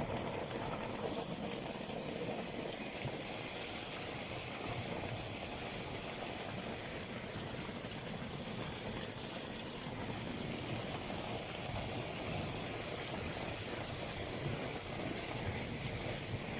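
Steady rain with runoff water running in the street, an even, unbroken wash of noise.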